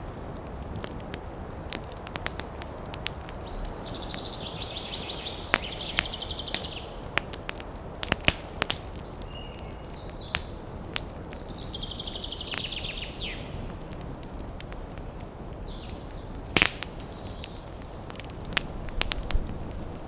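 Campfire crackling, with scattered sharp pops and a loud pair of pops about three-quarters through, over a steady rush of wind in the trees. A bird gives a rapid high trill twice, each about two seconds long.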